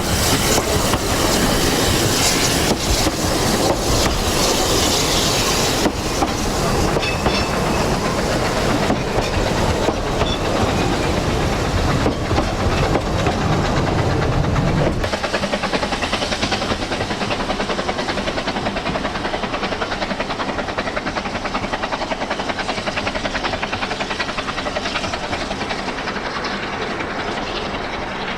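Narrow-gauge train running along the track, its wheels clattering over the rails. The low rumble drops away about halfway through, and the sound grows steadily quieter to the end.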